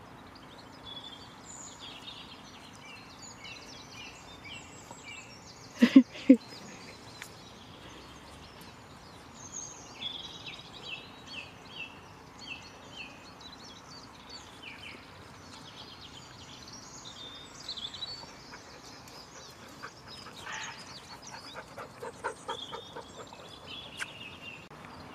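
Small birds chirping and singing throughout, with two short, loud calls close together about six seconds in and a quick run of calls near the end.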